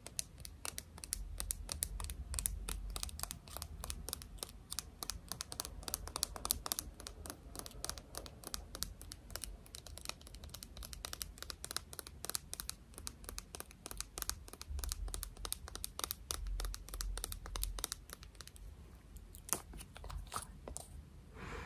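Close-miked ASMR hand sounds: a dense, fast run of crackling clicks from hands and fingers moving and rubbing right at the microphone, with a low rumble beneath.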